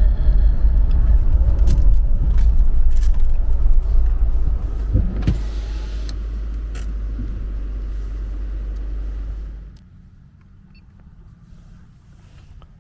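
Car on the move: a low steady road rumble with scattered small knocks, loudest for the first few seconds, then quieter, then dropping away suddenly about ten seconds in.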